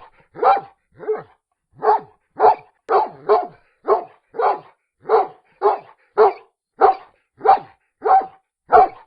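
A dog barking over and over at a steady pace, about two barks a second, each bark short and sharp with a clean gap of silence between.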